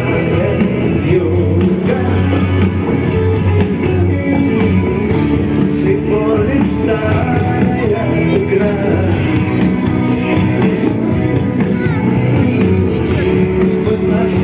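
Live rock band playing a song with vocals, heard through the concert's sound system.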